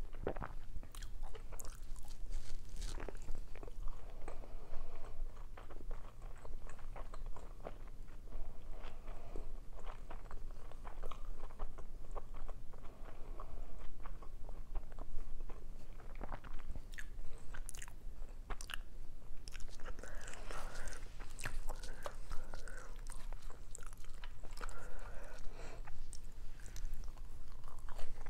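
Close-miked chewing and biting of dolmas (stuffed grape leaves) and salad: a constant run of short, wet mouth clicks and smacks, growing busier in the last third.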